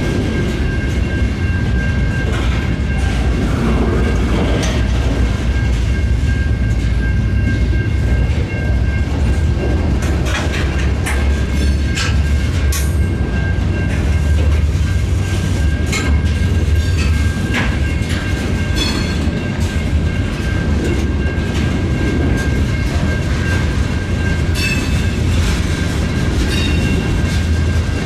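Freight train cars rolling past with a steady low rumble and irregular wheel clatter over the rail joints, with a steady high ring over it.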